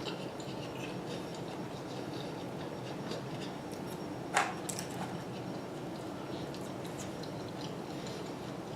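Quiet chewing and small clicks of a person eating chicken wings, over a steady background hiss, with one sharp click about four seconds in.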